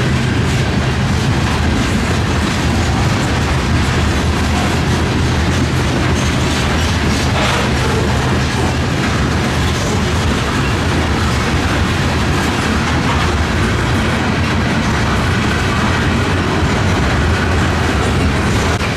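Freight train rolling past close by: steady, loud wheel-on-rail noise with the clickety-clack of car wheels over the rail joints.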